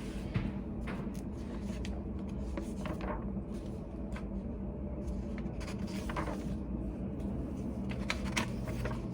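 Study cafe room tone: a steady low hum with scattered light clicks and rustles of small objects being handled.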